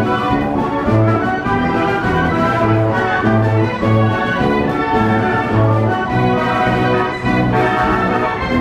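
1918 Wurlitzer Style 157 carousel band organ playing a tune, with brass-like and violin-like pipe voices over a bass line of repeated low notes.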